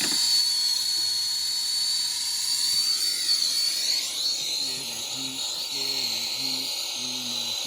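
Brazing torch flame hissing steadily at full heat on a refrigerant leak in an evaporator coil. From about halfway through, a low series of short repeated tones sounds underneath.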